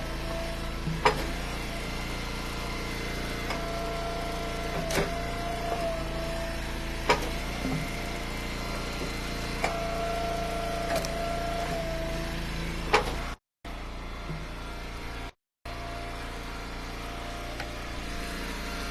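Engine-driven hydraulic wood splitter running steadily, with a higher tone rising in stretches as the ram works, and a few sharp cracks and knocks of firewood rounds being split and handled.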